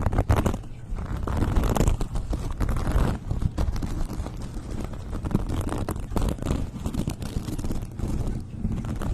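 Close-miked ASMR triggers: dense, irregular crackling, scratching and tapping with a low rumble, as of objects or fingers handled right against the microphone.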